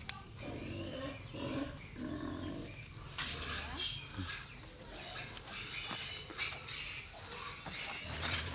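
Short, scattered animal sounds, coming and going.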